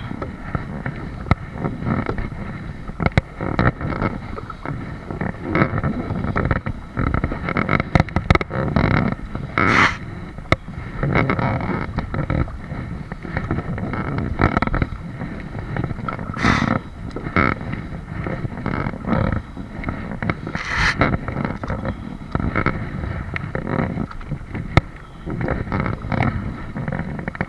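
Kayak on the water: irregular sloshing and knocking of water against the hull as it is paddled, with a few louder sharp splashes.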